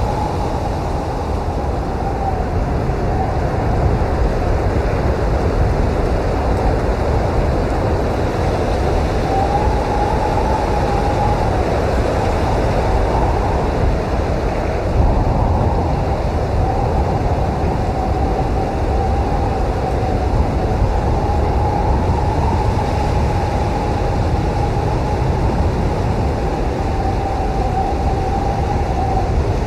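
Blizzard wind blowing steadily: a deep, continuous rushing rumble with a thin whistling tone that wavers slightly in pitch above it.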